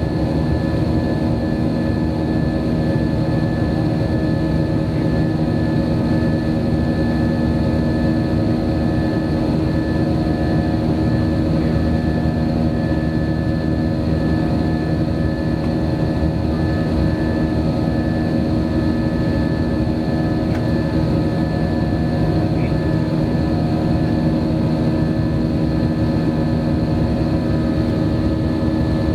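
Steady engine and airflow noise inside the cabin of a JetBlue Airbus airliner in flight, a constant rumble with several even engine tones that hold steady throughout.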